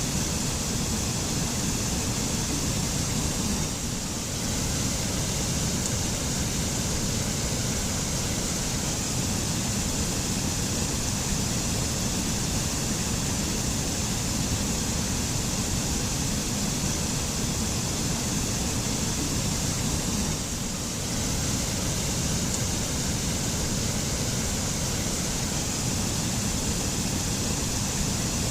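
Mountain waterfall: a steady rush of falling water that dips slightly twice, about four seconds in and again about twenty-one seconds in.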